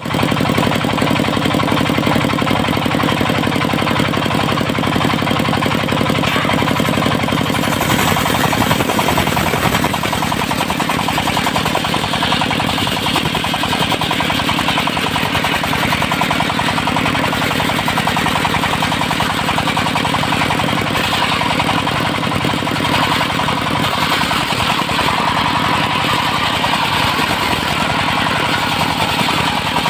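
Engine-driven circular sawmill running loudly and continuously. Its steady engine note turns rougher and more irregular about eight seconds in, with a hiss in the upper range through the rest.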